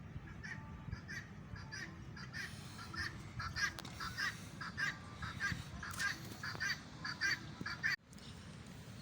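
A bird calling over and over, with short harsh calls in quick succession that grow busier after the first couple of seconds, over a steady low rumble.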